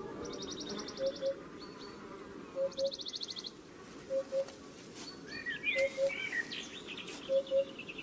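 Wild birds calling in open countryside: a low two-note call repeats about every second and a half, two rapid high trills come in the first half, and a burst of chirping comes near the middle.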